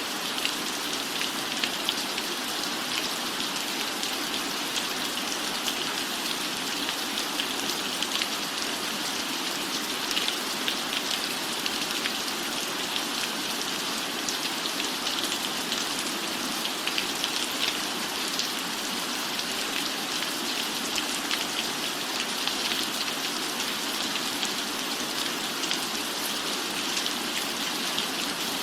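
Steady rain: an even hiss of falling drops with many fine patters and ticks, unchanging throughout.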